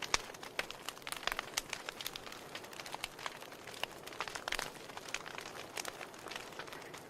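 Wood fire in a fireplace, logs crackling and popping: a soft steady hiss of burning broken by many irregular sharp snaps.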